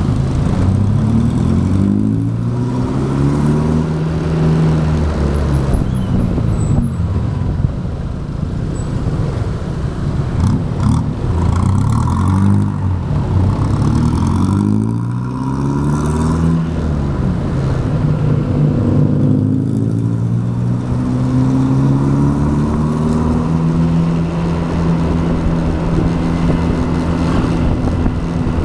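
Motorbike engine running under way, its pitch rising and falling several times as it speeds up and slows, over steady road and wind noise.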